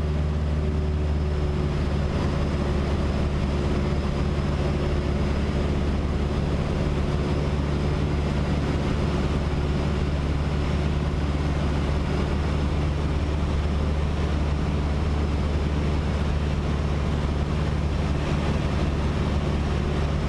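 Cessna 152's Lycoming O-235 four-cylinder engine and propeller droning steadily in flight, an even low hum with no change in power.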